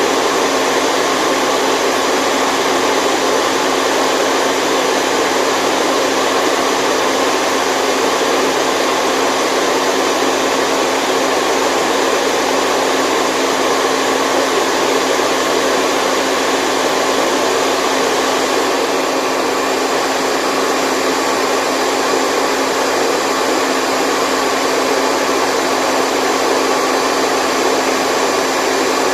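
Steady, unbroken white noise played for a baby's sleep, an even hiss with a few faint steady tones running through it and little bass.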